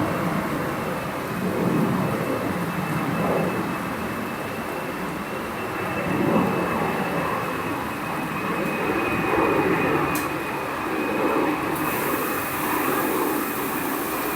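Steady rain with low rumbling swells every second or two, over a faint steady high tone; a single sharp click about ten seconds in.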